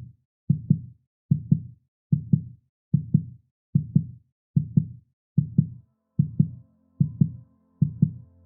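Heartbeat sound effect: a steady lub-dub double thump repeating about 75 times a minute. A soft, steady low drone of music comes in under it in the second half.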